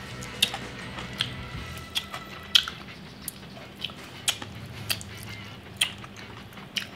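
Fried chicken being bitten and chewed close to the microphone: crisp crunches of the breaded coating, about ten of them at a steady chewing pace, roughly one every half second to second.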